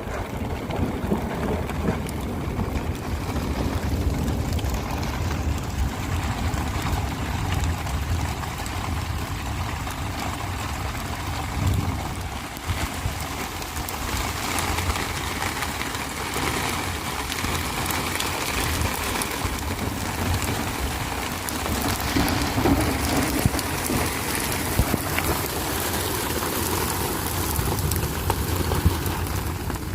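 Steady storm noise: a low wind rumble on the microphone over a continuous hiss of rain.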